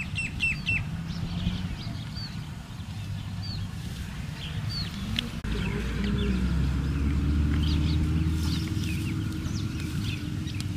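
Small birds chirping in many short, high, repeated calls over outdoor ambience with a low steady drone; about five and a half seconds in the low rumble gets louder and a long, low, even tone joins it.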